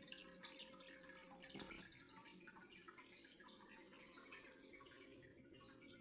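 Near silence: faint, irregular small ticks over a faint steady hum.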